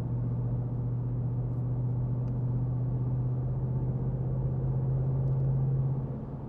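Ford Mustang GT's 5.0 L V8 cruising under steady light load, with its active valve exhaust partly open in sport mode: a steady low drone over road noise that swells a little and then eases off about six seconds in.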